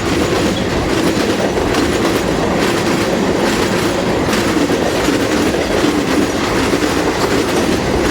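Train cars rolling past at close range: a steady loud rumble of steel wheels on the rails, with clickety-clack over the rail joints.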